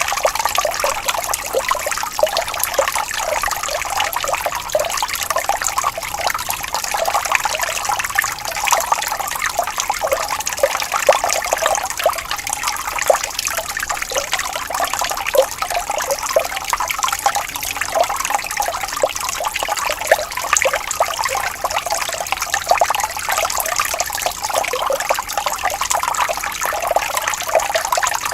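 Water flowing gently over stones with a steady, bubbling trickle, small splashes running continuously without a break.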